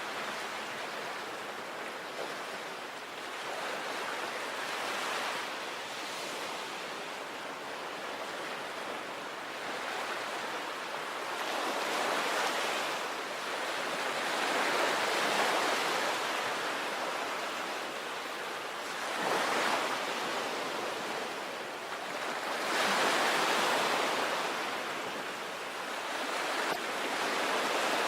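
Sea waves breaking and washing up on a beach, in slow swells several seconds apart, the louder breakers coming around the middle and again near the end.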